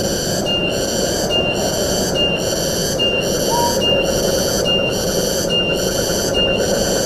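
Wind through the forest, a steady rushing noise. Over it a high-pitched pulsing call repeats a little under once a second, and a single short, slightly rising note sounds about halfway through.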